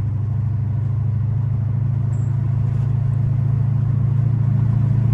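Chrysler 300's Hemi V8 running under way, a steady low drone of engine and road noise that grows slightly louder toward the end.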